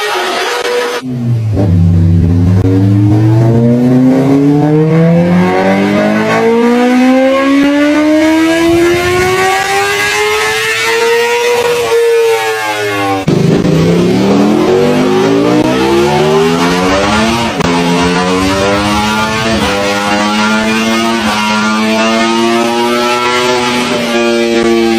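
High-powered motorcycle engines accelerating hard: one engine's pitch climbs steadily for about ten seconds without a drop, then a cut brings a second engine that climbs again and holds a high, nearly steady pitch near the end.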